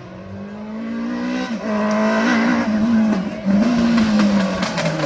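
Rally car approaching under hard acceleration, growing louder. The engine pitch climbs, drops at a gear change about a second and a half in, then climbs again.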